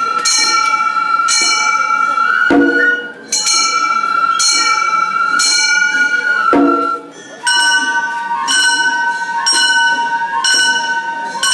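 Gion-bayashi festival music: hand-struck brass kane gongs ringing in a steady, quick pattern over a flute melody, with two deep drum strokes.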